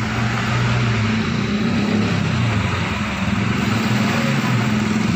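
Car engine running at a steady speed, a low even hum that wavers slightly in pitch.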